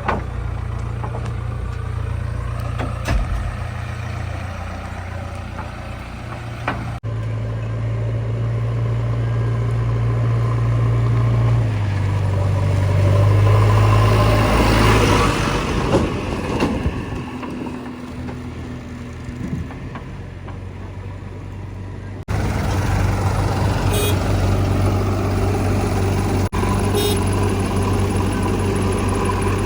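Heavy diesel machinery running: the engines of a JCB 3DX backhoe loader and a tractor, a steady low drone. Near the middle it swells louder and rougher for a few seconds, and the sound changes abruptly twice where the footage is cut.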